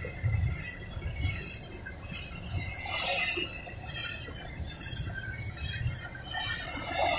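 Double-stack intermodal well cars rolling past on the rails: a steady low rumble of wheels on track with light metallic clinking and rattling, and a burst of high metallic hiss about three seconds in and again near the end.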